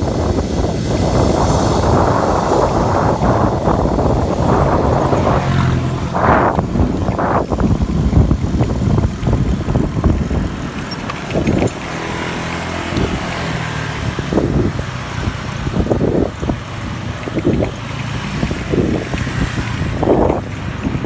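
Wind buffeting the microphone while riding, with a dense rumble that eases a little about halfway through. Scattered short knocks and bumps come through it.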